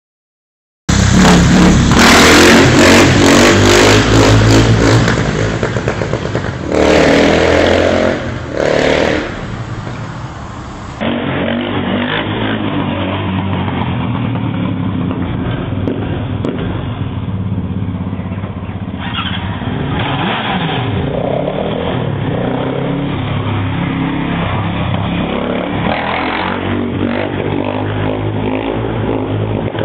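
KTM 640 LC4 single-cylinder four-stroke engine through an Akrapovic exhaust: revved hard for the first few seconds, blipped twice, then running steadily at a lower, idle-like speed with a few light revs.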